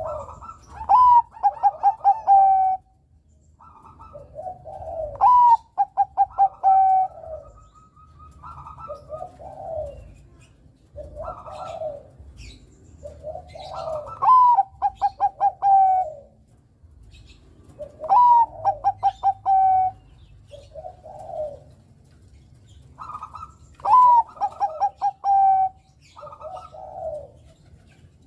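Zebra dove (Bangkok-bred perkutut) cooing: loud song phrases repeat every few seconds, each a rising note followed by a quick run of clipped coos. Softer, lower cooing phrases fall between them.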